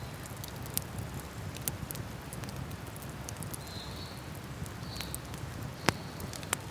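Wood fire crackling, with scattered sharp pops (the loudest about six seconds in), over the steady rush of a river.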